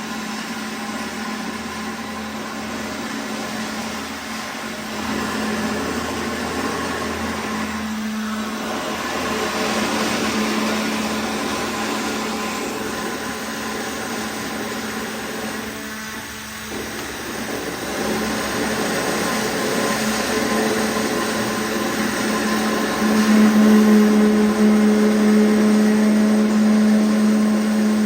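Concrete 3D printer machinery running with a steady mechanical hum, growing louder about two-thirds of the way through.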